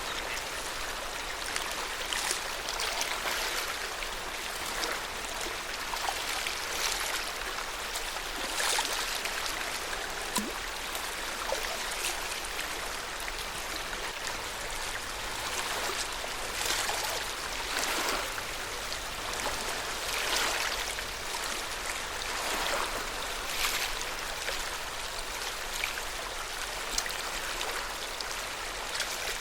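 Lake water lapping: a steady wash of small waves with soft splashes every second or two.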